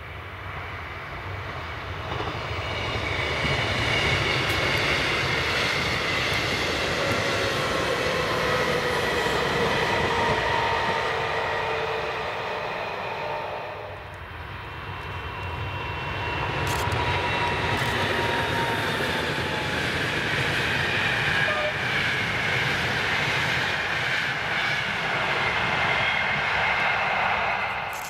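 A train passing close by at speed, with whining tones that slide slowly down in pitch over the rolling noise. The sound eases about halfway through, builds again with a few sharp clicks, and cuts off suddenly at the end.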